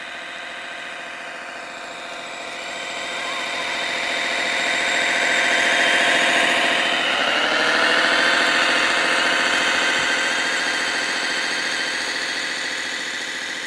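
Engine sound from the Servonaut SMX sound module of a Kyosho Blizzard radio-controlled snowcat. It runs steadily, grows louder, rises in pitch about halfway through, then eases back somewhat.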